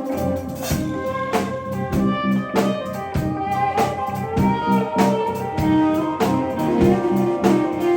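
Live band playing an instrumental passage: guitar over a steady drum kit beat, with sustained melodic notes.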